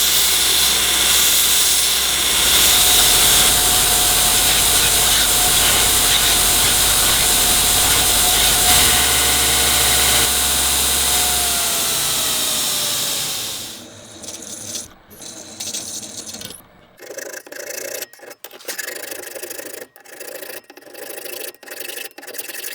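A workshop power tool runs steadily, then spins down, its whine falling in pitch, about 12 to 14 seconds in. Irregular hand rubbing and filing strokes on the workpiece follow.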